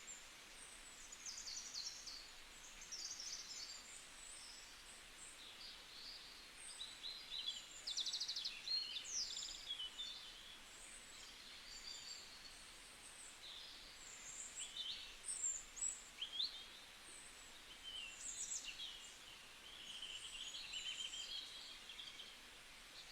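Several small wild birds chirping and trilling, faint high-pitched calls coming and going over a quiet background hiss.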